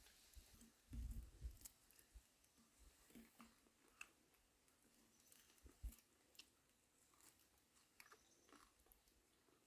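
A person chewing food, heard as faint, irregular small clicks and crunches with a couple of soft thumps.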